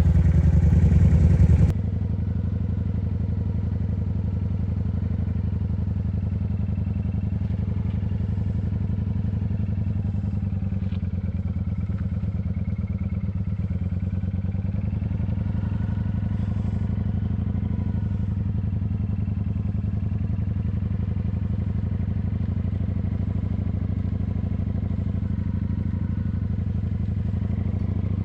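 Kawasaki motorcycle engine running steadily, freshly cold-started. It is louder for the first couple of seconds, then drops suddenly to a lower, even running sound.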